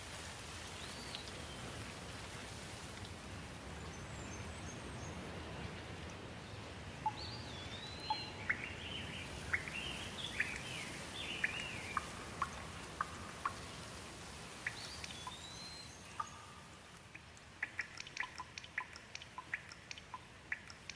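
Steady rain hiss with birds calling over it: short whistled calls that rise and fall, and chirps, through the middle, then a quick run of short sharp ticks near the end.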